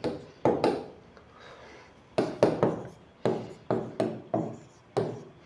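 Writing instrument tapping and stroking on a writing surface, about nine sharp knocks at irregular intervals, as a worked calculation is written out.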